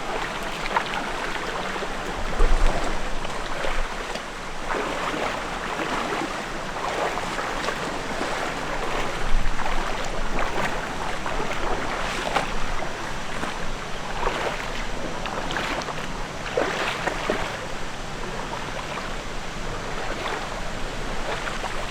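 Rushing stream water, a steady wash of noise broken by irregular short splashes.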